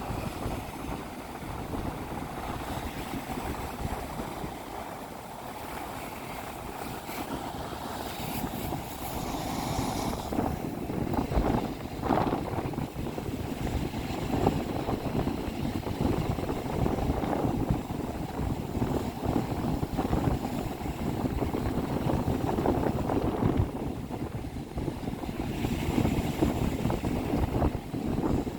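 Rough sea surf breaking and washing onto a beach in strong wind, a continuous rushing with louder hissing surges as waves wash in, about a third of the way in and again near the end. Gusts buffet the microphone as a low rumble.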